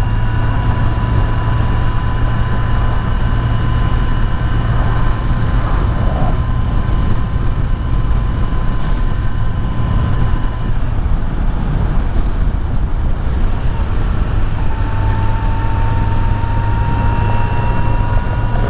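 Kawasaki Z900's inline-four engine running steadily at cruising speed through a stock exhaust, with wind and road noise over it. A thin high whine fades out in the middle and comes back rising slightly near the end.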